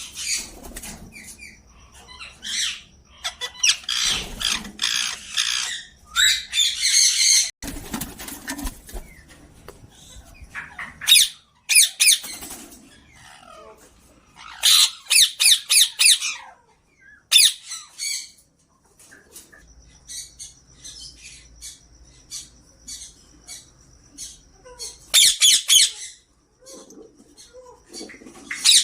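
Indian ringneck parakeets squawking: harsh, scratchy calls in repeated bursts of a second or two, with short pauses between.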